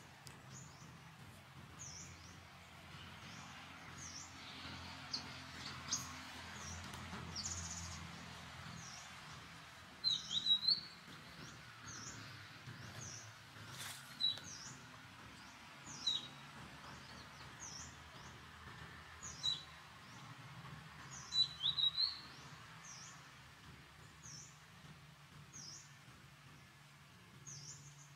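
Small birds chirping: one keeps repeating a short, high, dipping call about once a second. Louder, sharper chirps come in short clusters several times from about a third of the way in.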